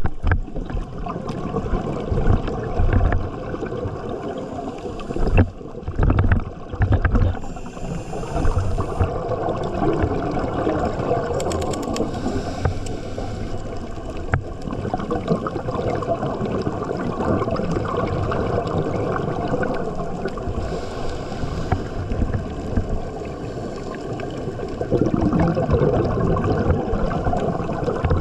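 Underwater sound of moving water, muffled, with gurgling and sloshing and a few louder low bumps about five to seven seconds in.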